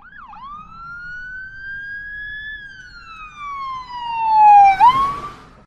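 A single siren wail: one long gliding tone that climbs slowly, then falls steadily while getting louder, swings back up briefly and fades out near the end.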